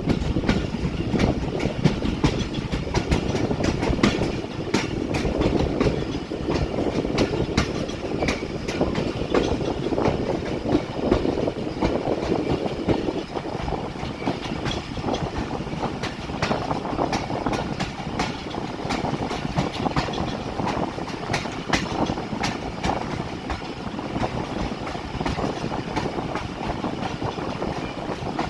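Pakistan Railways passenger train 8DN running on the track, its wheels making a continuous rumble with a clickety-clack of frequent clicks over the rail joints, slightly quieter in the second half.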